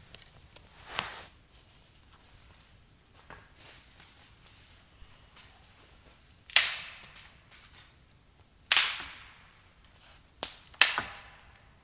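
A series of sharp knocks, five in all at uneven intervals, each dying away quickly, the three later ones the loudest.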